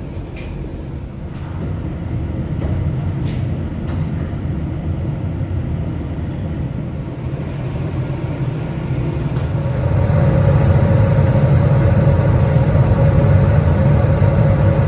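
Steady low rumble of a vehicle heard from inside, growing louder about ten seconds in, when a humming tone comes up over it.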